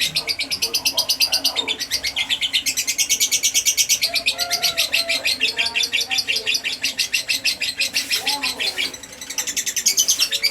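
Lovebird singing a long, fast chattering trill, a continuous run of high chirps with a brief break about nine seconds in: the fighter-type lovebird song used as a lure call to make other lovebirds answer.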